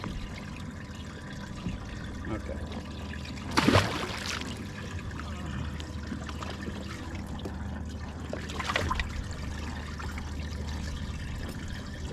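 Water trickling steadily in a bass boat's livewell, with two brief splashes, about four and nine seconds in, as fish are handled in the water.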